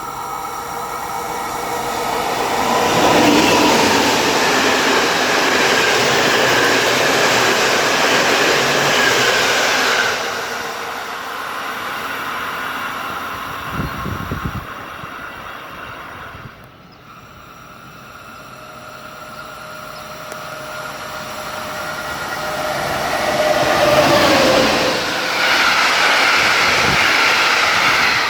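Trains passing through a station: a loud rush of wheels on rail with a steady whine, fading about ten seconds in, then a second loud pass building up and running near the end.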